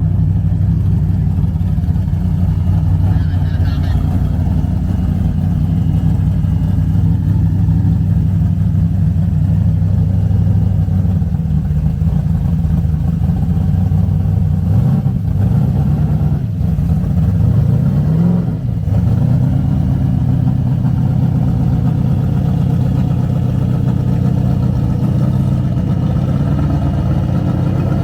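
A car engine idling steadily, revved a few times in short rising-and-falling blips about halfway through, then settling back to idle.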